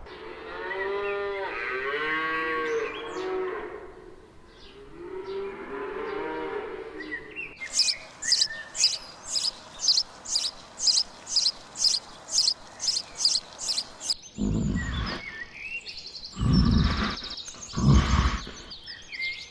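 Three different animal calls in turn: first a run of arching, wavering pitched calls, then about a dozen sharp, high chirps at an even pace, then a few loud, deep calls near the end.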